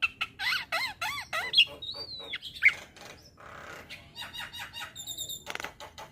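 Javan myna singing: a fast run of arched, squeaky whistles, then one long rising-and-falling whistle about two seconds in, followed by clicking, chattering notes and a few high tinkling notes near the end.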